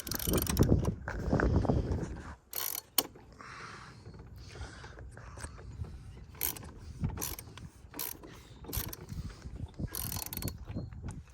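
Ratchet and 32 mm socket clicking as the oil filter housing cap on a BMW B58 engine is worked loose, with knocks from the tools and a low rumble in the first two seconds. The clicks come singly and in short runs, irregularly spaced.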